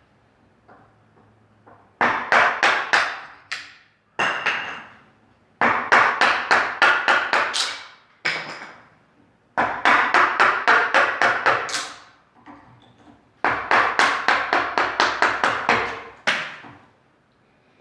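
Runs of quick, sharp tapping strikes on a wooden post, about seven or eight a second, in five bursts of one to two and a half seconds with short pauses between.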